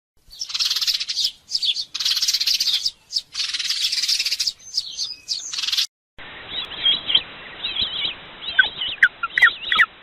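Birds chirping and twittering in dense bursts of about a second each. About six seconds in, the sound cuts to a different, duller recording of short, quick chirps.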